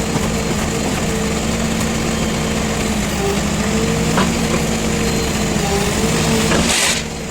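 JCB 3DX backhoe loader's diesel engine running under working load, its pitch dipping and rising slightly as the load changes. A short hiss about seven seconds in, after which the engine sound drops a little.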